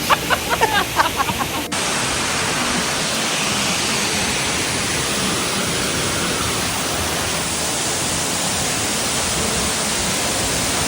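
A voice for about the first second and a half, then a sudden cut to the steady, loud rush of a waterfall pouring close by.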